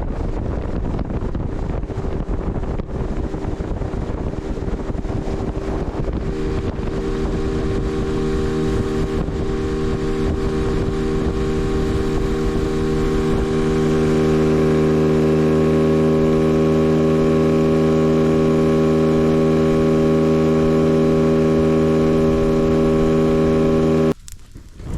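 Tarpon 9.9 hp outboard motor driving a boat under way, with wind and water rush. Its steady engine note grows stronger and louder over the second half, then the sound cuts off abruptly near the end.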